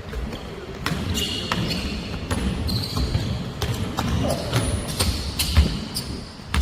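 Basketball game on an indoor court: the ball bouncing in repeated thuds, with short high squeaks of sneakers on the floor.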